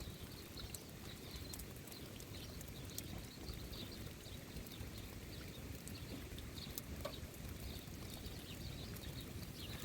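Faint, short high chirps of small birds, repeating irregularly over a low, steady outdoor rumble.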